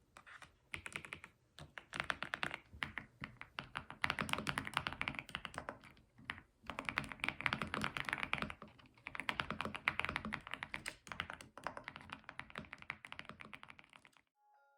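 Fast typing on a computer keyboard: rapid runs of keystrokes broken by a few brief pauses, stopping shortly before the end.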